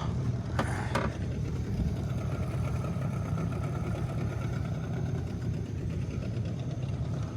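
A boat's engine running steadily at low revs, with two short knocks about half a second and a second in.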